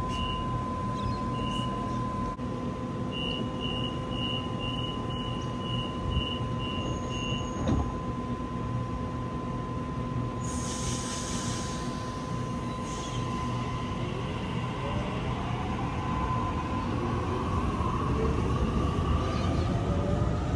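Railway train noise at a station: a steady hum, with a run of short high beeps in the first several seconds. From about two-thirds of the way in, several rising whines grow louder as a train approaches or pulls away.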